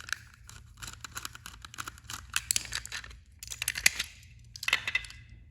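A battery-powered toy train engine being handled, with irregular plastic clicks, rattles and scrapes and a few busier clusters of clatter.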